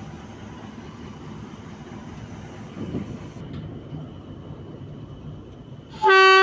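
Diesel locomotive HBU-20 running steadily at a standstill, then about six seconds in a single loud blast of its horn, the departure signal.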